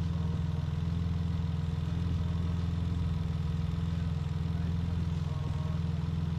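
Freshly built, boosted J35 stroker V6 in a Honda Accord idling steadily with an even, unchanging note.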